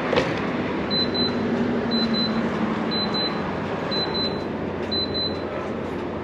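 Gas pump's card reader beeping: a pair of short high beeps about once a second, five times, over steady traffic noise. It comes as a card is retried at a pump that keeps refusing it.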